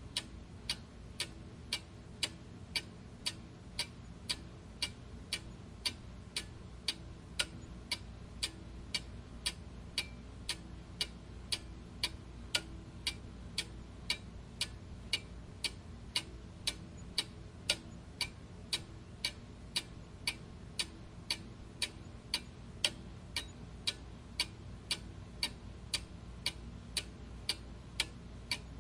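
Clock ticking steadily, sharp even ticks a little under two a second, over a faint low hum.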